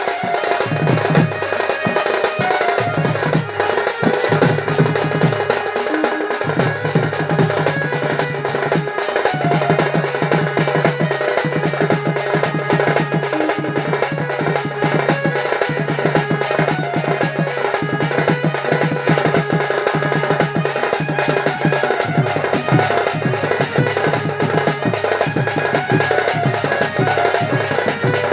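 Folk percussion ensemble of drums playing a fast, dense rhythm, with a low sustained note changing pitch in repeated short phrases underneath.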